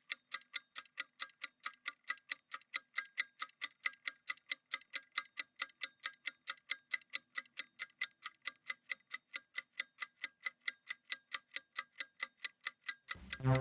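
Clock ticking, a steady, even tick of about four a second, used as a timer sound effect. Music cuts back in just before the end.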